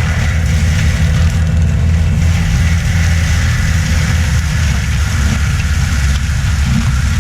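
Heavy diesel equipment engine running steadily under load: a deep, even drone with a broad hiss above it.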